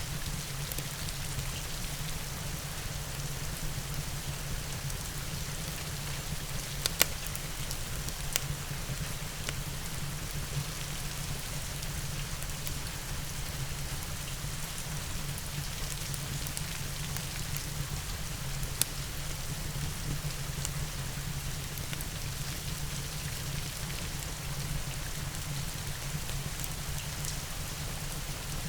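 Steady rain with a low, even rumble beneath it, broken by a few sharp crackles from a wood fire: the loudest about seven seconds in, another a second or so later, and one more about two-thirds of the way through.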